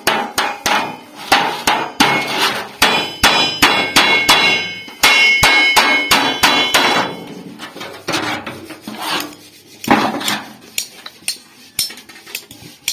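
Hammer blows on refrigerator sheet metal being shaped into a pot, quick strikes about three a second with a metallic ring in the middle of the run. The last few seconds bring sparser, softer taps.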